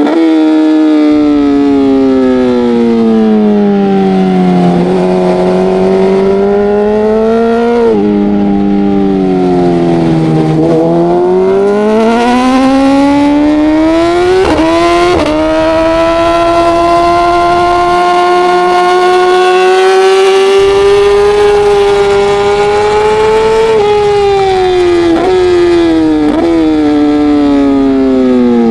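Racing motorcycle engine at high revs: the pitch falls under braking and climbs again twice, with quick breaks at upshifts about halfway through, holds high for several seconds, then steps down through a run of downshifts near the end. A steady rush of wind noise lies under it.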